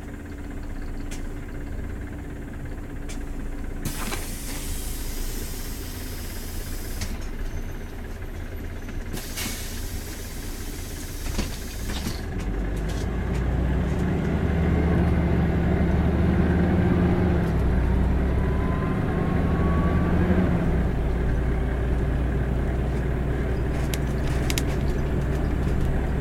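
City bus heard from inside the cabin: two bursts of compressed-air hiss, each about three seconds long, from its pneumatic system. Then the diesel engine picks up and runs louder as the bus gets under way, with a faint rising whine near the middle.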